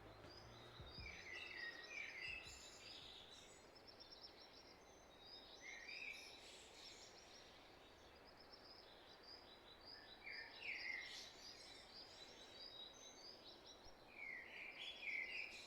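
Faint birdsong: several small birds chirping and twittering over a soft hiss of outdoor background, with a brighter burst of song about every four seconds.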